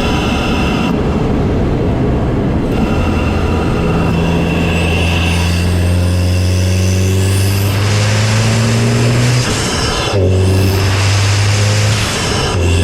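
Volkswagen MK7 GTI's turbocharged 2.0-litre four-cylinder heard through a CTS cold air intake from the engine bay, pulling hard under acceleration with its pitch climbing steadily. A faint rising whistle runs alongside the climb, and the sound breaks briefly about ten seconds in and again near the end as gears change.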